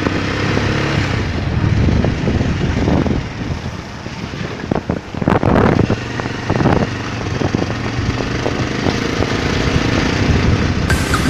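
Bajaj Pulsar 220 motorcycle's single-cylinder engine running steadily, with a few louder noisy bursts about halfway through.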